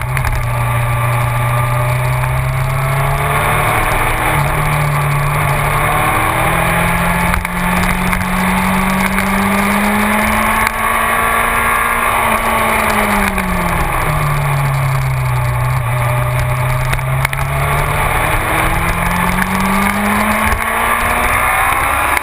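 Yamaha YZF-R6's 600 cc inline-four engine under way, heard from a camera on the bike's front. The revs climb slowly, drop back about halfway through as the throttle comes off, then rise again near the end.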